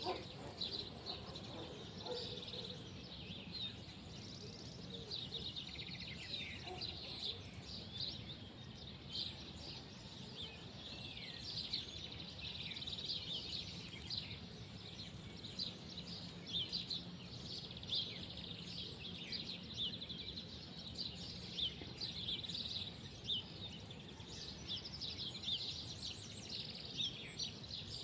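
Small birds chirping continuously, many short quick calls overlapping throughout, over a low steady outdoor background hum.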